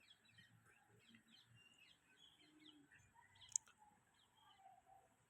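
Faint chirping of small birds, many short calls one after another, with a single sharp click about three and a half seconds in.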